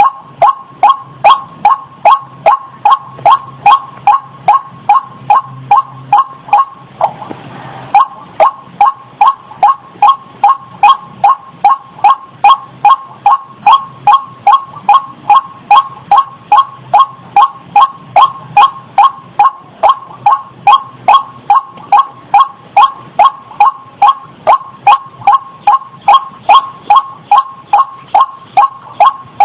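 White-breasted waterhen (burung ruak) calling: one loud call repeated over and over at an even pace, about two to three a second, with a break of about a second near seven seconds in. This is the call used as a lure to trap the bird.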